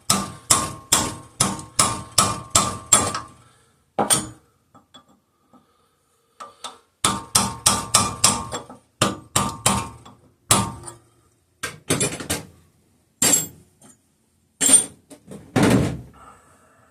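Metal hammer blows ringing as the flywheel nut of a 5 hp Briggs and Stratton engine is tapped tight, with the flywheel held by a chisel wedged in the cooling fins. There are two quick runs of about eight strikes each, then a few slower, heavier blows, the loudest near the end. The nut is being made tight so that the flywheel will not shear its aluminium flywheel key.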